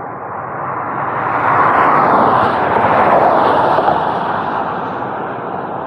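Rushing noise of a vehicle passing by, swelling to a peak about two to three seconds in and then fading away.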